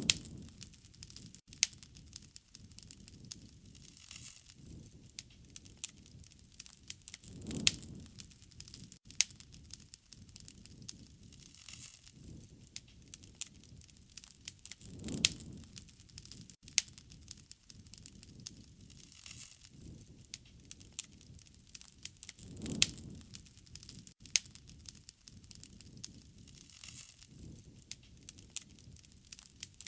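Wood fire crackling, with frequent sharp pops and snaps over a soft rustling bed. A low whoosh swells and fades about every seven and a half seconds.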